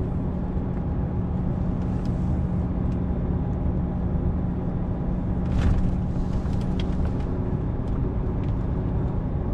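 Truck engine running steadily with a low hum and road rumble, heard from inside the cab while driving. A brief sharp knock or hiss about halfway through.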